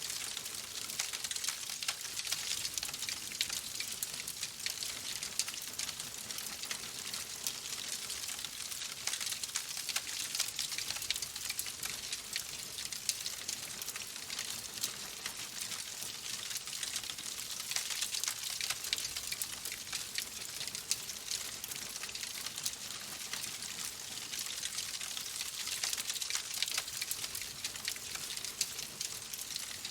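Wood fire in a fireplace crackling steadily: dense small snaps and pops over a soft hiss.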